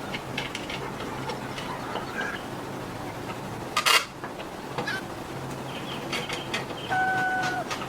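Scattered taps and clicks over a low steady hum, with one sharp knock about four seconds in and a short steady tone near the end.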